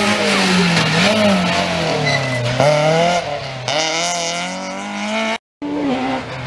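Rally car engine at high revs, the pitch climbing and dropping several times as it shifts gears and lifts off through a corner. The sound cuts out for a split second about five and a half seconds in, then engine noise resumes.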